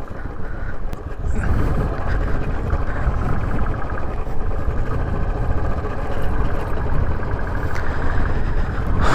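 Motorcycle running on the move, with heavy wind rumble on the microphone.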